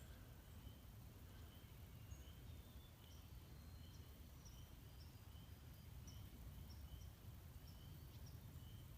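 Near silence: faint outdoor ambience with a soft high chirp repeated evenly about every two-thirds of a second, a few brief higher chirps, and a low rumble underneath.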